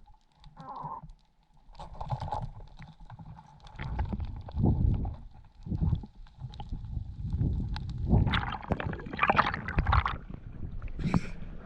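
Muffled water sloshing and gurgling around a waterproof camera, in irregular low rumbles with scattered small clicks.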